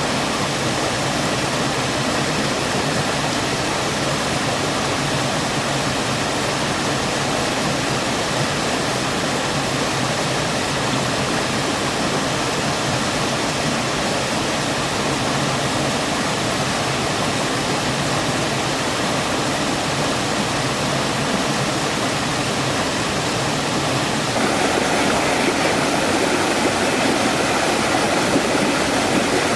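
Rushing stream water, a steady noise that turns louder and fuller near the end.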